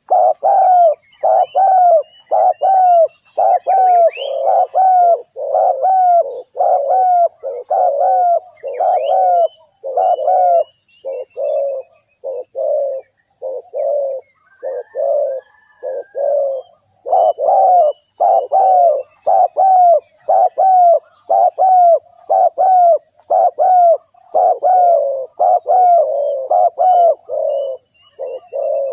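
Spotted dove cooing in a long, steady run of low coos, about two a second, with a short break around the middle. This is the decoy-dove call used to lure wild spotted doves. Faint high chirps of other small birds sound behind it.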